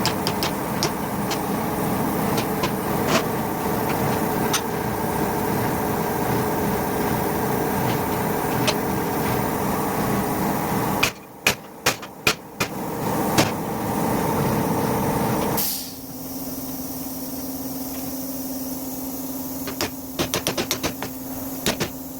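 Steady workshop machine noise with scattered sharp tool clicks and knocks on metal. It cuts off suddenly about halfway. A handful of sharp clicks follows, then a steady low hum with another run of clicks near the end.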